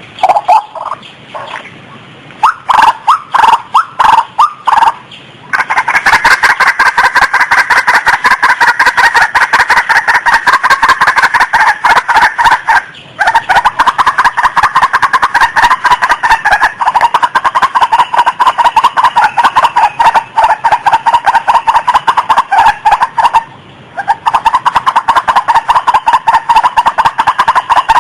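Female rail calling: a few spaced loud notes, then from about five seconds in a fast, continuous run of repeated notes, broken briefly twice. It is offered as the call of a female in breeding condition, used to lure others of its kind.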